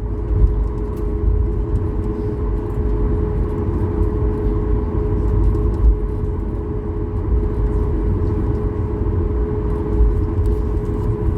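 Steady cabin noise of a Boeing 737-8200 MAX with its engines running: a constant hum over a low rumble, unchanging throughout.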